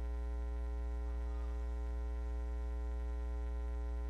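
Steady electrical mains hum, an even buzz with a stack of overtones that stays unchanged throughout.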